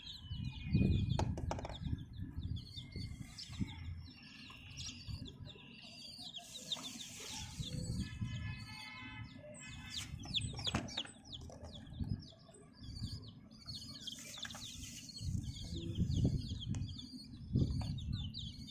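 Baby chicks peeping, many short high chirps repeated again and again, over intermittent low rumbling noise.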